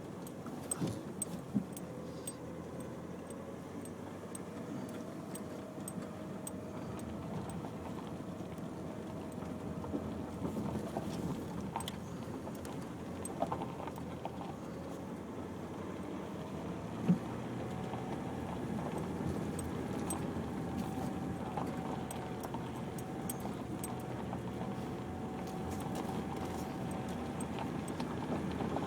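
Nissan X-Trail driving slowly along a rough unsurfaced track, heard from inside the cabin: a steady engine and tyre noise with an engine tone that drifts up and down. Scattered light clicks and rattles come through, with a sharper knock about seventeen seconds in.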